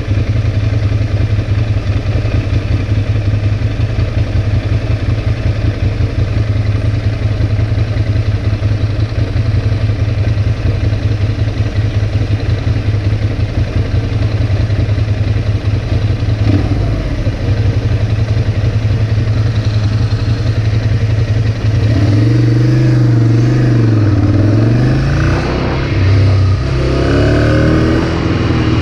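Ducati Monster's L-twin engine idling at a standstill with a fast, lumpy pulsing note. About 22 seconds in it revs up and pulls away, the pitch climbing and dropping several times as it shifts up through the gears.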